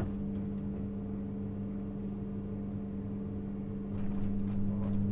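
Inside a JR 651 series electric multiple unit: a steady hum of the train's equipment, with several held tones, growing a little louder about four seconds in.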